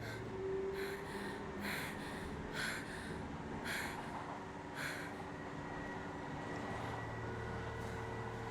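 A person breathing heavily in short gasps, about one a second for the first five seconds, over a steady low hum.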